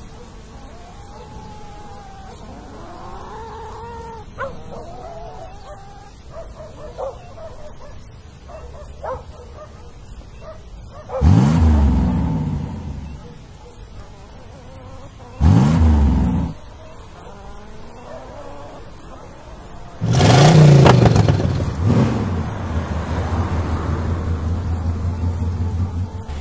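Car engine revved hard three times, each rev rising and falling in pitch, as the car is driven to free a front wheel hanging off a ledge; after the third rev it keeps running steadily.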